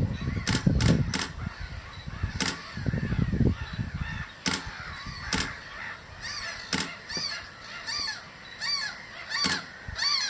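Gulls calling in a repeated run of harsh calls, about two a second, through the second half. Earlier there are several sharp clicks, and wind buffets the microphone for the first few seconds.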